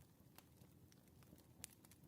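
Faint wood fire crackling, a low soft hiss broken by a few sharp pops, one about half a second in and a louder one near a second and a half.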